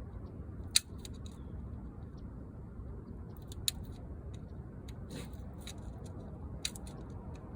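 Scattered sharp clicks and light ticks from a window screen being pressed into the groove of its frame, the loudest click about a second in, over a steady low hum.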